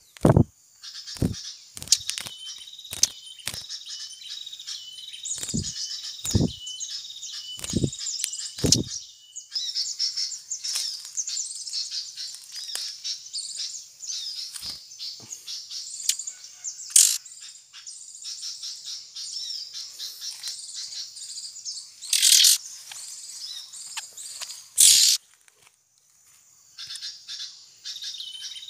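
Small birds chirping and calling rapidly and almost without a break. A run of short knocks or taps fills the first nine seconds, and two short, loud rustling bursts come about 22 and 25 seconds in.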